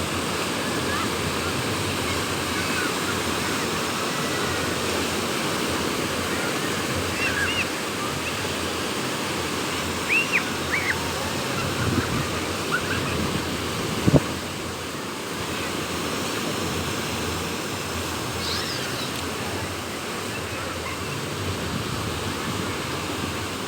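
Sea waves breaking and washing onto a beach with wind, a steady rushing. A few short high chirps come through, and a single sharp knock sounds about halfway through.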